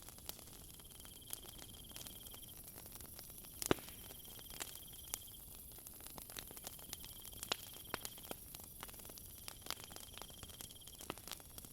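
Wood fire crackling with irregular pops, one louder pop about a third of the way in, over night crickets: a steady high-pitched drone and a rapid trill that comes in bouts of a couple of seconds.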